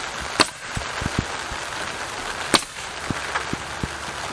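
Steady rain hiss, with two sharp cracks about two seconds apart and a few softer knocks.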